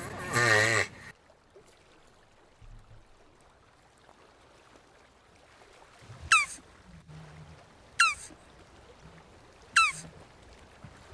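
A wavering, groaning call that ends about a second in, typical of a jabuti tortoise's call. Later come four short high chirps, each falling sharply in pitch, about two seconds apart.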